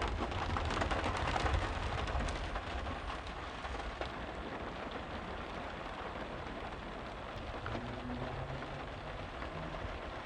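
Steady rain falling, with many small drops tapping; a little heavier in the first few seconds.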